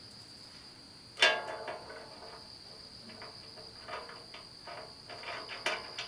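A sharp metallic clank about a second in, then lighter clinks and ticks of steel parts being handled while bolts are fitted with a washer and nut. Under it, the steady high chirring of crickets.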